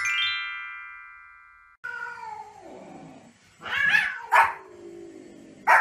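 A short chime rings and fades over the first two seconds. Then a cat gives drawn-out, falling yowls while a small white spitz-type dog barks three times, loud and sharp.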